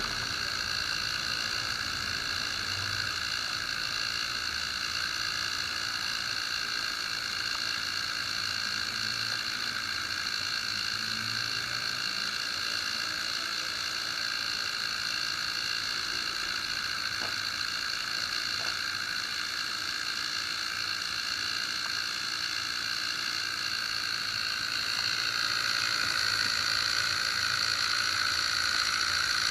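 Hair dryer running steadily, a constant fan whine over a hiss of air, growing a little louder near the end.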